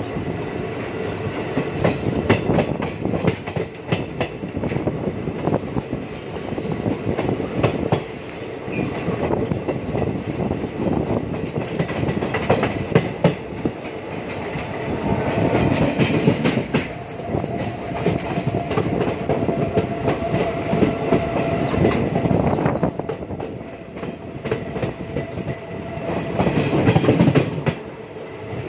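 Express passenger train running, heard from one of its coaches: wheels clattering over rail joints and crossings in a dense, irregular clickety-clack over a steady rolling rumble.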